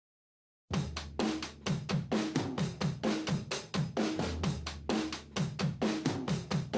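Silence, then a drum kit beat starts abruptly under a second in: kick drum, snare and cymbals hit in a steady driving rhythm, as the opening of a song.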